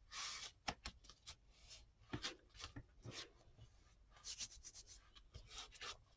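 Faint short strokes of a drawing tool scratching across paper, drawing small bird shapes one after another.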